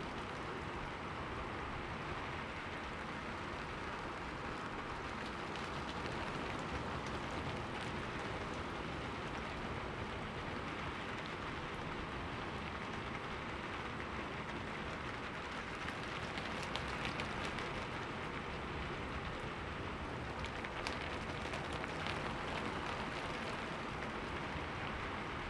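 Steady rain falling on a window, an even hiss with scattered faint drop ticks.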